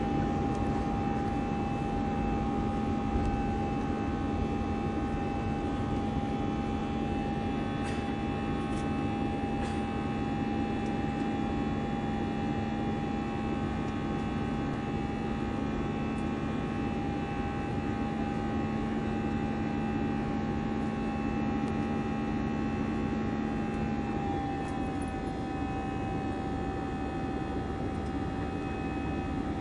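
Airbus A320's CFM56 jet engines running steadily, a constant rushing hum with a steady high whine. About 24 s in, the lower tone drops out and the whine and the overall level dip slightly.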